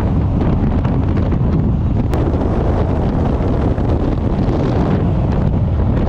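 Wind rushing over the microphone of a car at road speed, over a steady low rumble of road and engine noise.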